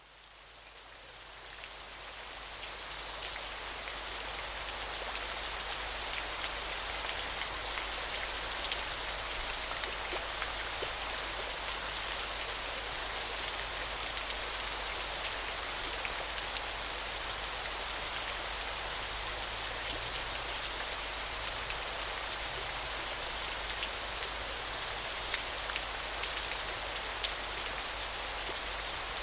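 River water running in a steady, even hiss full of small splashes and drips, fading in over the first few seconds. From about twelve seconds in, a thin, high, even trill repeats in runs of a second or two with short gaps.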